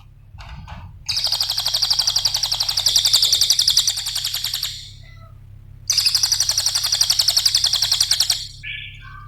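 Cililin songbird singing: two long, fast, high-pitched rattling trills of rapidly repeated notes, each lasting a few seconds, followed by a few short chirps near the end.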